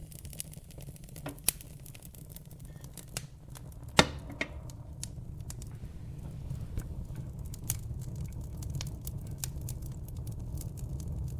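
Fire burning in a fireplace, crackling: a steady low rumble of flame with scattered sharp pops and snaps, and one loud pop about four seconds in.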